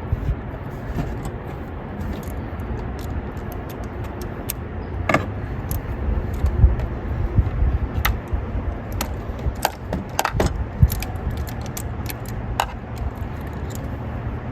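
Hand tools and metal parts clinking and clicking irregularly during work on a car engine as bolts are fitted, over a low rumble.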